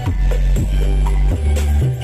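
DJ remix music played loud through a large sound-system rig at a sound check: deep sustained bass notes changing pitch every half second or so, under a steady drum beat.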